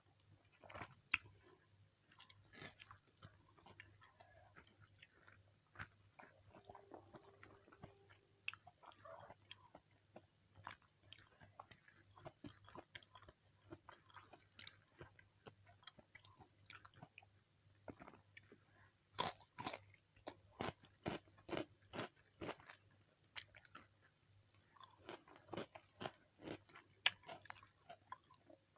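A person eating close to the microphone: quiet chewing with crisp crunches, and a run of louder crunchy bites about two a second around two-thirds of the way through. The food is fried chicken with raw cucumber and cabbage.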